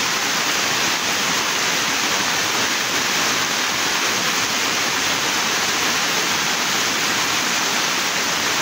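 Heavy rain pouring down onto a flooded road, a dense steady hiss with no letup.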